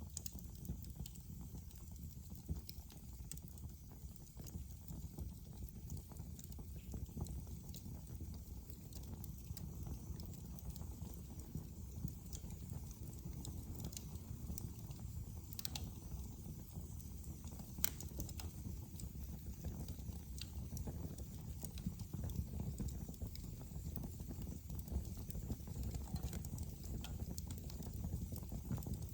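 Wood fire burning in a fireplace: a steady low rumble with scattered crackles and a few sharper pops in the second half.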